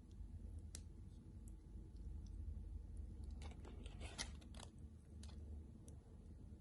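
Crackle of crispy fried-chicken coating: scattered faint clicks, then a cluster of crunches from about three and a half to nearly five seconds in, over a low steady hum.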